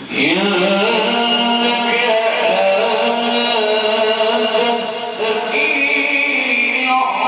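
A male Quran reciter chanting one long, ornamented phrase of tilawah. The voice cuts in suddenly with a short upward slide, then holds and wavers in pitch without a break.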